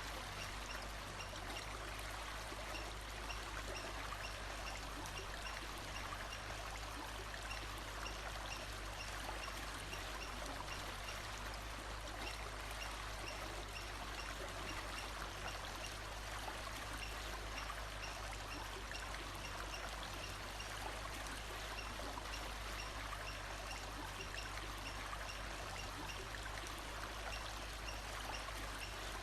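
A stream running steadily, with a faint high call repeating at an even pace over the water.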